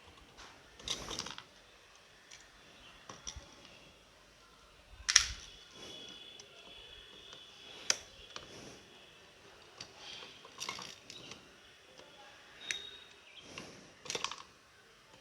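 Scattered clicks, light knocks and short scrapes of hand tools and small metal and plastic parts as the brush plate is taken off a mixer grinder's motor. The sharpest knock comes about five seconds in.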